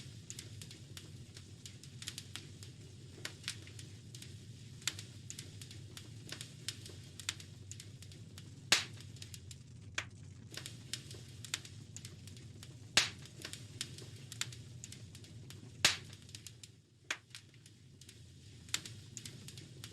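Wood fire crackling in a fireplace: a steady low rumble under many small sharp pops and snaps, with three louder pops spaced a few seconds apart.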